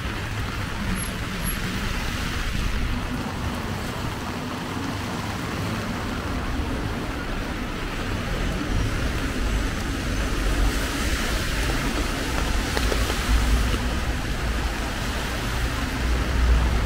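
Heavy rain falling steadily, mixed with road traffic; a low vehicle rumble swells in the second half.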